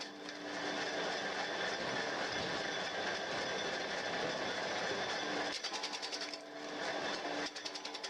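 Homemade firewood splitting machine running with a steady mechanical clatter, with short spells of rapid clicking about five and a half seconds in and again near the end.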